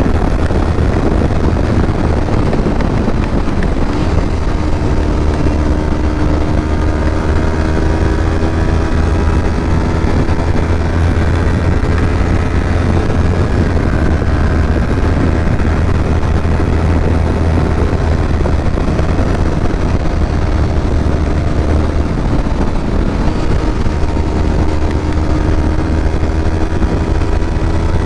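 Kawasaki Ninja 250 parallel-twin engine running under way, its note climbing in pitch as the bike accelerates, twice, over a steady low rumble.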